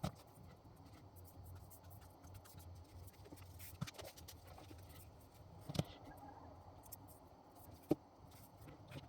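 Scissors cutting fabric strips, quiet, with a few sharp clicks of the blades and handling spaced about two seconds apart.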